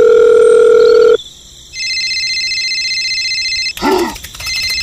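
Telephone sound effect: a loud steady dial tone that cuts off about a second in, then an electronic phone ringing with a warbling two-tone trill. The ring breaks briefly for a short sound and then starts again near the end.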